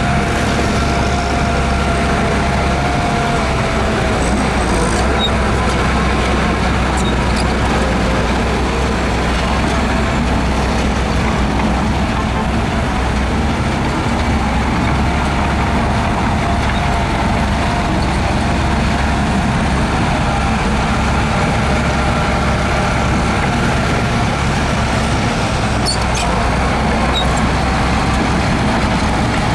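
Heavy diesel earthmoving machinery running steadily, with a faint whine that comes and goes over the engine noise.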